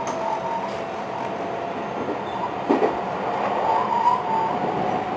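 Running noise heard inside a JR West 223 series 1000 electric train car (KuMoHa 223-1008) at speed: a steady rumble of wheels on rail with a steady whine over it, and two louder knocks, about halfway through and a second or so later.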